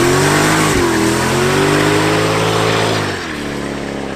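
Car engine revved hard and held at high revs over a loud hiss of spinning tyres in a burnout. The revs dip briefly about a second in, then fall away about three seconds in.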